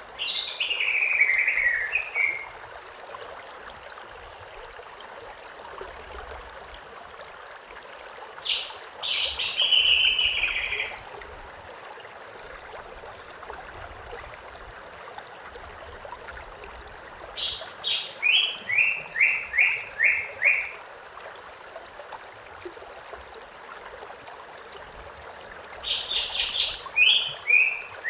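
A songbird sings the same short phrase four times, about every eight to nine seconds. Each phrase is a quick run of high notes sliding downward, ending in a string of separate repeated notes. Under it runs the steady rush of river water.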